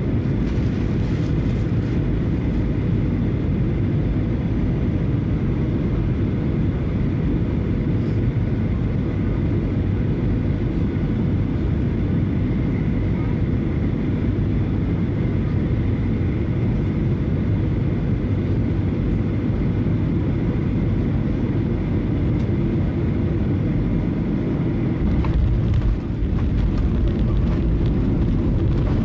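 Cabin noise inside a Boeing 737-900ER: a steady low rumble of its CFM56-7B jet engines and the airflow. About 26 seconds in there is a brief dip with a few knocks, then the rumble grows a little louder.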